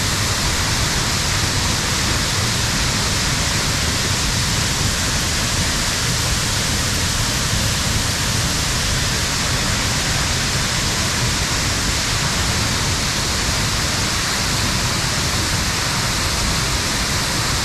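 Deer Creek Falls pouring down, a loud, steady rush of falling water, with wind gusting off the falls buffeting the microphone.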